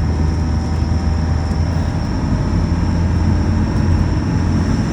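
Diesel engine of a 4x4 running steadily while held in second gear going down a hill, heard from inside the cab, with a steady low hum.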